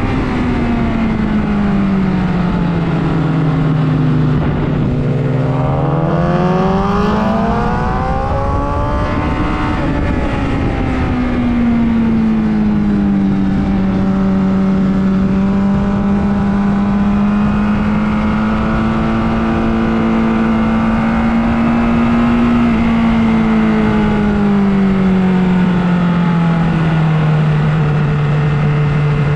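Motorcycle engine running at speed under a steady rush of noise. Its note drops over the first few seconds, climbs smoothly to about ten seconds in, holds steady, then falls away again near the end.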